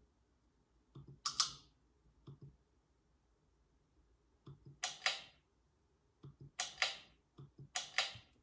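Ceiling fan pull-chain switch clicking as the chain is pulled several times to step the fan to low speed: about four sharp clicks, each with a fainter tick just before it, a second or two apart.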